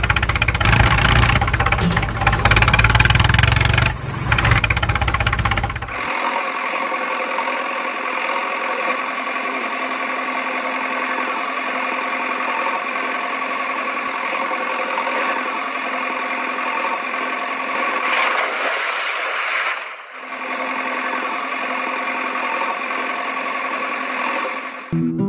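An engine running: rough and loud with a deep rumble for about the first six seconds, then a steady, even hum for the rest, briefly dropping out once near the end.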